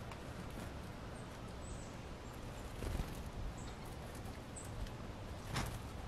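Small songbirds at a seed-covered feeder platform: a few sharp taps of pecking and landing among the seeds, with short, faint, high chirps in the background.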